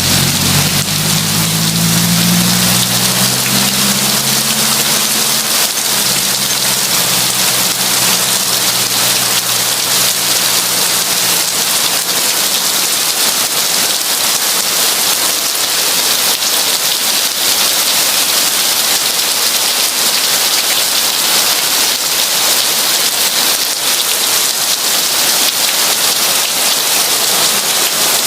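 Heavy rain falling steadily as an even, hissing wash. In the first few seconds a low engine hum fades away beneath it.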